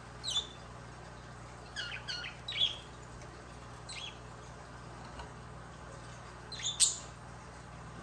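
Budgerigar giving short, sharp chirps at intervals: one near the start, a quick run of three about two seconds in, one around four seconds, and the loudest pair near the end. A faint steady low hum runs underneath.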